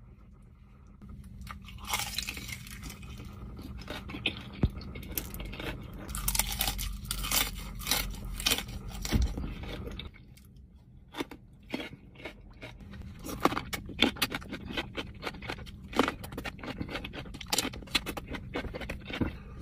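Close-miked eating of consommé-dipped tacos: a dense run of biting, chewing and wet mouth clicks, with a brief lull about halfway through.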